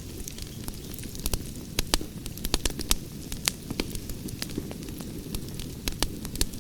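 Wood fire crackling, with a steady low rumble of flames under frequent sharp, irregular pops and snaps.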